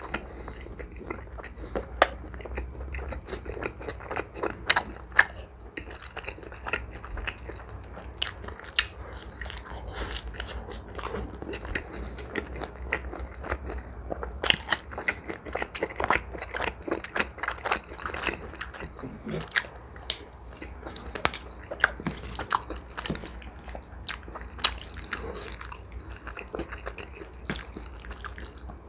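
Chewing a mouthful of shrimp pizza: a steady run of small, wet mouth clicks and smacks.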